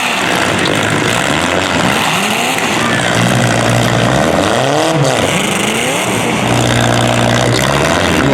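Demolition derby car engines running loud, with an engine revving up and back down several times over a steady drone, the biggest rev about five seconds in.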